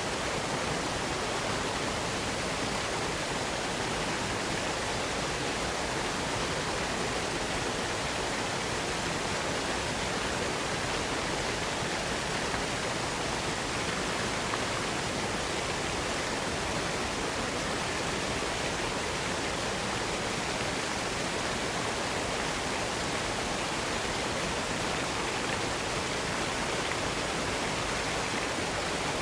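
Waterfall rushing in a steady, unbroken roar of falling water, with no changes or separate splashes.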